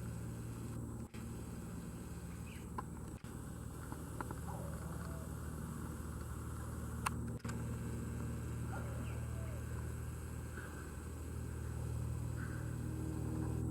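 Single-engine propeller airplane flying over, its engine a steady low hum that grows a little louder near the end.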